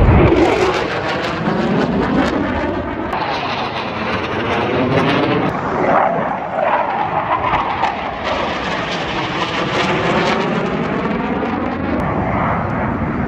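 Blue Angels F/A-18 Super Hornet jets flying past, a loud steady jet noise whose pitch sweeps and shifts as they pass. It is loudest about a second in.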